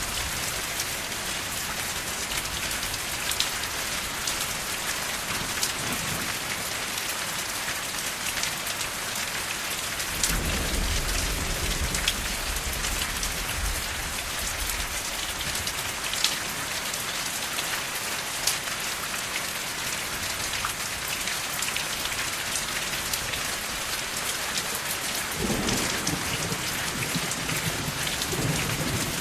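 Steady rain falling, with scattered sharp drop ticks. Low thunder rumbles for a few seconds about ten seconds in, and again near the end.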